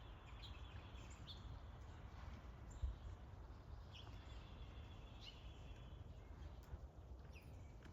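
Faint outdoor ambience: small birds chirping now and then over a steady low background rumble.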